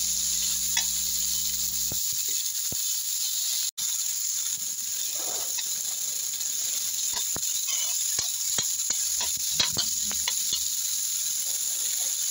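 Chopped sweet potato tops, tomato and onion sizzling in oil in a metal wok, with a steady hiss. A metal spoon scrapes and clicks against the pan as they are stirred.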